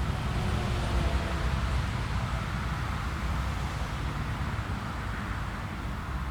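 Jet airliner's engines as it passes, a steady rumble with a faint whine sliding slowly down in pitch, fading gradually toward the end.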